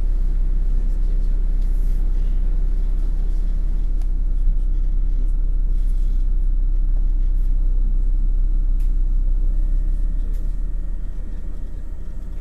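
MAN NL253 Hybrid city bus running, a steady low rumble with a constant hum; it eases and gets quieter about ten seconds in.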